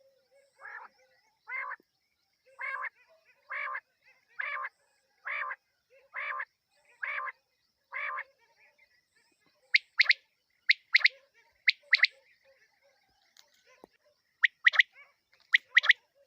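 Quail (batair) calling, the night call that hunters use as a lure: a run of about nine short, evenly spaced notes, roughly one a second, then sharper, higher notes in quick pairs from about ten seconds in.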